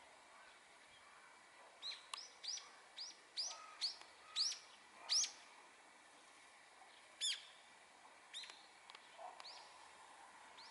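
A songbird calling: a quick run of short, sharp chirps, about three a second for a few seconds, then a single louder call and a few fainter chirps toward the end, over faint outdoor hiss.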